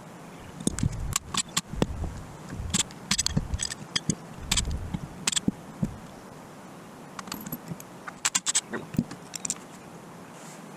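Hand tools and small metal engine parts clinking and scraping in irregular clusters of sharp clicks, with a few pauses between them.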